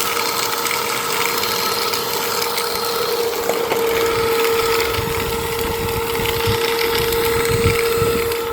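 Dirt Devil Powermax Pet vacuum cleaner's motor running with a steady whine and airflow hiss, still sounding normal despite the liquids sucked into it. An uneven low rumble joins about halfway through.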